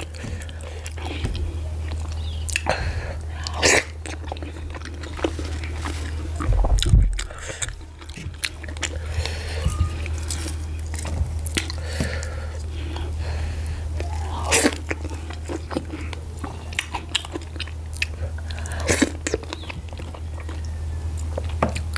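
Close-miked chewing and wet lip smacking of garri fufu with slimy ogbono soup, eaten by hand, in many short clicks and smacks. A steady low hum runs underneath, with one louder bump about seven seconds in.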